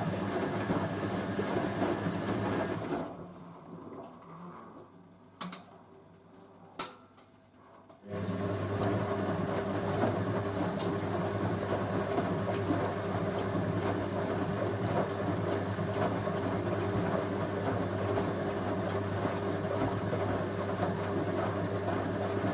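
Hoover A3060 Electronic 1100 front-loading washing machine running with a steady mechanical hum. It stops for about five seconds, with a couple of sharp clicks, and then starts up again with a steady hum and a higher tone added. This is the machine moving between programme stages, just before its first distribution drain.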